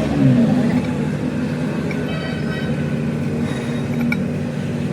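Steady hum of running machinery, its pitch dropping briefly at the start.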